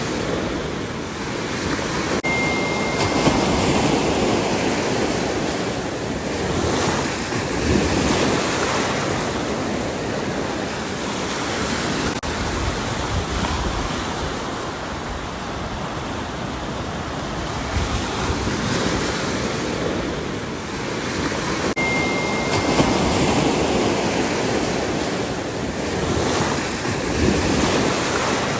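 Ocean surf: waves breaking and washing ashore in a continuous rush that swells and eases every few seconds.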